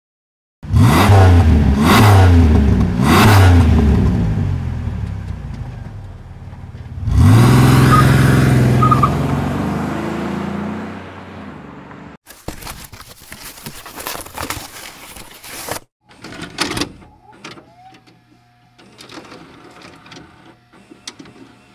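Car engine revved in three quick blips about a second apart, then one longer rev about seven seconds in that dies away slowly. It cuts off suddenly, and a harsher noisy stretch and scattered clicks follow.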